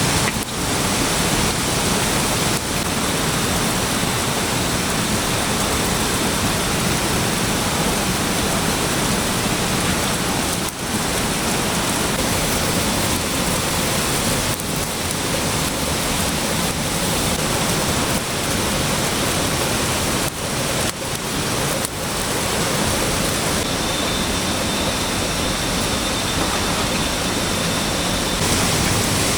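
Steady, loud rush of water, an even hiss with no rhythm, dipping briefly a few times.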